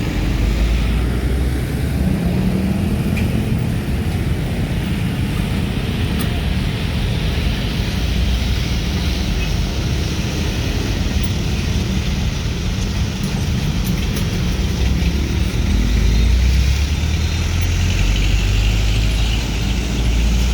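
Heavy diesel trucks running and passing by on the road: a steady low engine rumble with tyre and road noise, swelling somewhat near the end.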